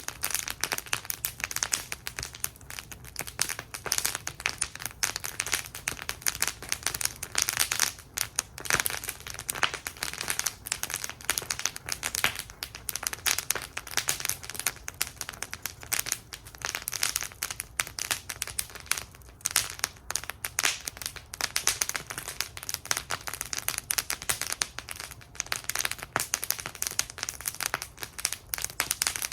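Wood fire burning in a fire bowl, crackling and popping continuously with many sharp snaps, over a faint low rumble of the flames.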